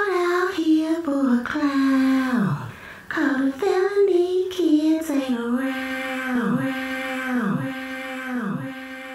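High-pitched wailing cries: a long wavering wail that drops away, then a string of falling wails about once a second, each fainter than the last.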